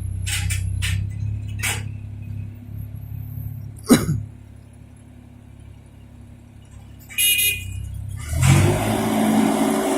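Engine of a 1.8-tonne crawler mini excavator running steadily, with a few knocks early on and a sharp sound falling in pitch about four seconds in. It goes quieter for a few seconds, then the engine revs up, louder and fuller, from about eight seconds in.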